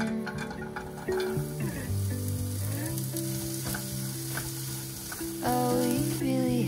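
Julienned carrot strips sizzling in hot oil in a frying pan after being tipped in, with the hiss setting in about a second in. A spoon-spatula stirs and clicks against the pan, over soft background music.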